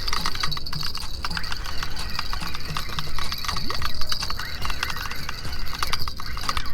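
Penn Pursuit spinning reel being cranked to bring in a hooked fish, a rhythmic clicking and ticking from the reel about twice a second.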